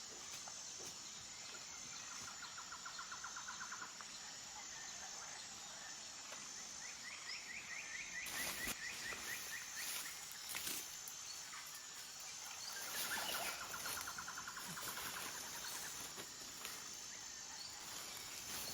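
Forest ambience: a steady high insect buzz, with a bird's rapid trill of repeated notes sounding three times. A few brief knocks come in the middle.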